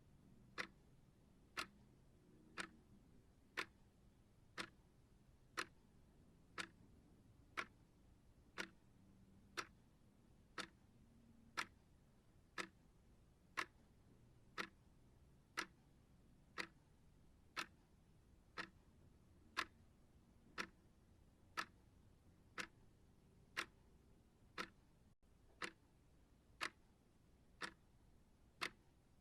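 Clock ticking steadily at about one tick a second: sharp, evenly spaced ticks.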